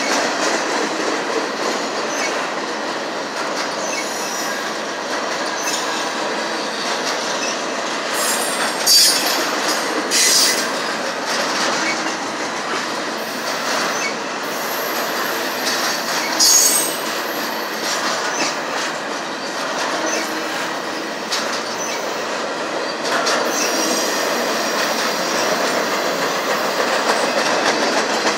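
Double-stack intermodal well cars rolling past at close range: a steady rumble and clatter of steel wheels on the rails. A few short, high-pitched wheel squeals stand out about nine to ten seconds in and again around sixteen seconds.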